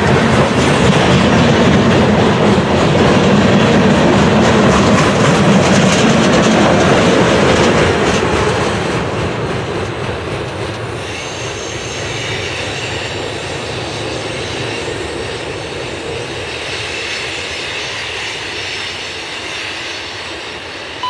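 Railroad cars rolling past with a steady clickety-clack of wheels over the rails. It is loud for about eight seconds, then fades as the train moves off, with a faint high wheel squeal in the second half.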